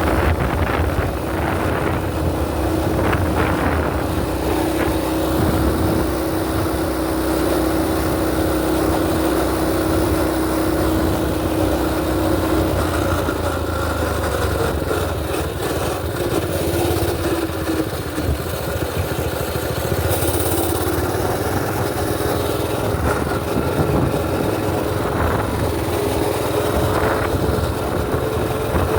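A mini bike's small engine running under way, with wind rumbling on the microphone. The engine note holds steady for the first part, eases off a little before halfway, then settles at a higher pitch later on.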